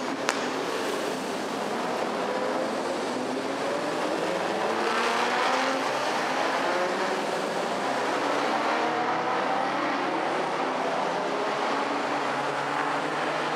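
Historic racing car engines running hard on track, their note rising in pitch as they accelerate. There is a sharp click about a quarter second in.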